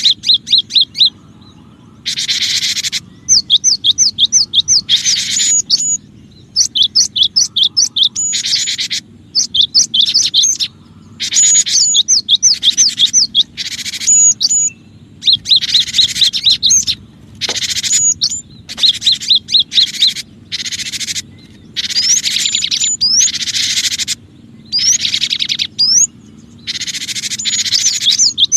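Cinereous tit (gelatik batu) song played as a bird-trapping lure. It comes as repeated bursts of rapid, high chirping notes, some as quick upward sweeps, with short gaps between bursts. Each burst carries a hiss that starts and stops abruptly with it, as in a spliced, looped recording.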